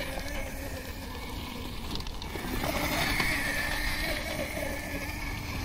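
36-volt electric kids' quad bike running, its motor and gear drive whining over a low rumble. The whine fades about a second in and swells again midway as the quad speeds up.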